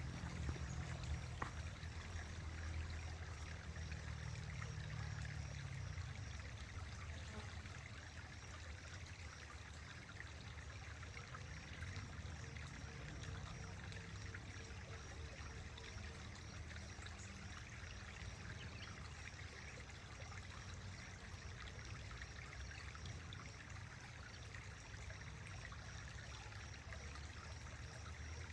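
Faint steady running water, with a low rumble underneath that is heaviest in the first few seconds.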